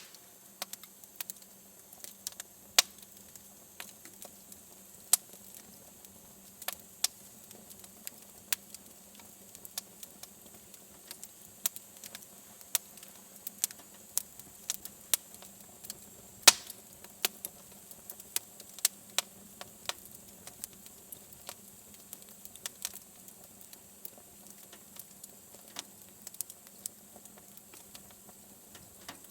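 Wood fire crackling in a fireplace: irregular sharp pops and snaps, several a second, over a faint steady hiss, with one louder pop a little past halfway.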